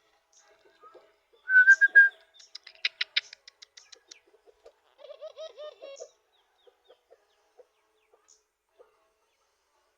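Birdsong around a tame dove. A burst of three short, loud, high chirps about one and a half seconds in is followed by a quick rattling trill. Around the middle comes one short, wavering low coo from the dove.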